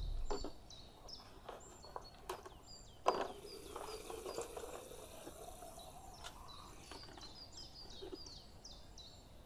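Birds calling in mountain forest, with many short, high chirps that fall in pitch, repeated several times a second, and scattered light clicks and knocks; the loudest knock comes about three seconds in.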